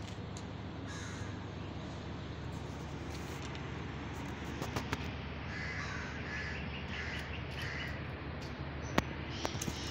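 A bird calling: a run of four short, harsh calls a little under a second apart in the middle, with another call near the start, over a steady low background rumble. A few sharp clicks, the loudest near the end.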